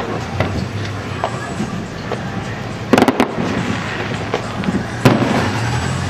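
Aerial fireworks bursting, with a quick cluster of sharp bangs about three seconds in and another single bang about five seconds later, over a steady rumble of further explosions.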